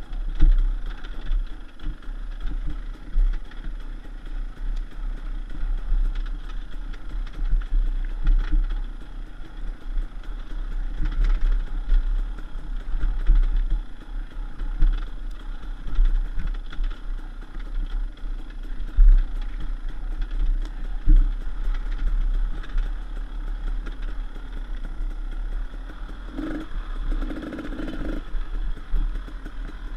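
KTM 300 EXC's single-cylinder two-stroke engine running as the bike is ridden along a bumpy dirt trail, heard through a helmet-mounted camera with a heavy low wind rumble. Frequent clattering knocks come from the rough ground, and the engine note swells briefly near the end.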